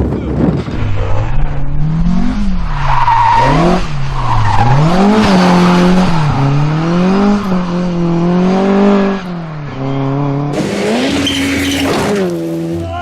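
Rally car engine at full throttle, its pitch climbing and dropping again and again through gear changes and lifts. A loud rushing hiss joins it for about two seconds near the end.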